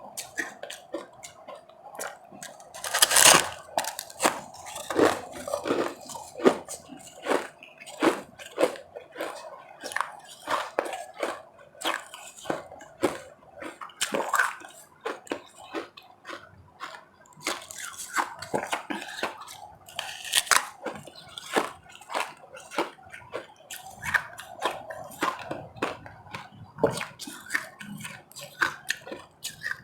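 Close-miked chewing and crunching of ice: a steady, irregular run of short crackling crunches, with louder bites about three seconds in and again near twenty seconds.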